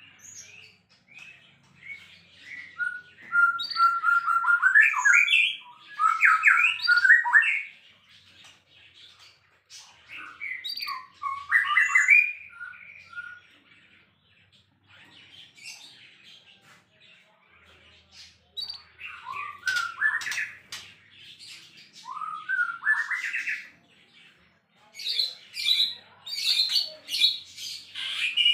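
White-rumped shama (murai batu) in full song, giving loud, fast, varied phrases of whistles and harsh notes in separate bursts with short pauses between them.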